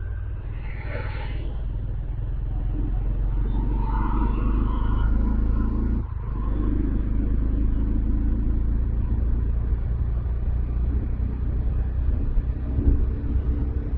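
Bajaj Dominar 400's single-cylinder engine and exhaust heard from onboard while riding in city traffic. It grows louder over the first few seconds, dips briefly about six seconds in, then runs on steadily.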